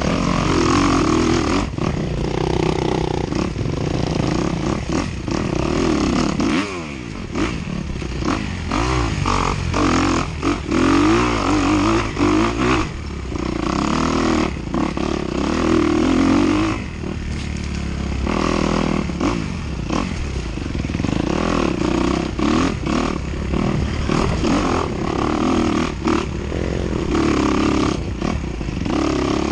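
Dirt bike engine revving up and down continuously as the bike is ridden over rough ground, with frequent knocks and clatter from the bumps.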